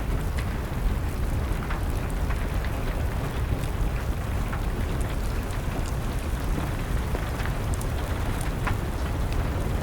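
Wood fire crackling over steady rain: an even, rumbling rush of rain with scattered sharp pops and crackles from the burning wood.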